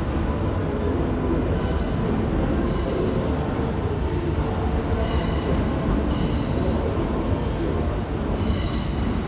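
Kintetsu 22000 series electric limited express pulling into an underground station platform: a steady rumble of wheels and running gear, with brief high wheel squeals several times as it rolls in.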